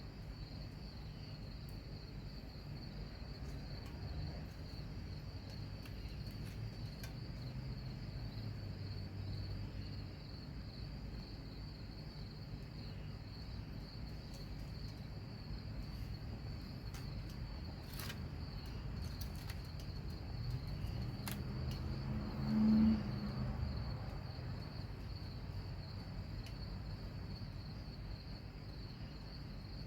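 A steady insect chorus, a continuous high trill, over a low background rumble. A short low hum swells and fades about 22 seconds in, with a few faint clicks around it.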